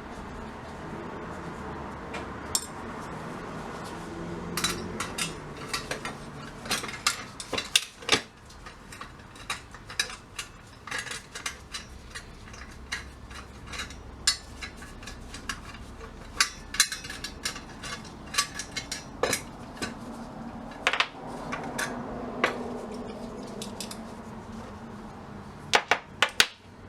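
Metal parts of a vintage jawbreaker machine's mechanism clinking and tapping as it is taken apart by hand with tools: irregular sharp clicks and knocks, with a quick run of taps near the end.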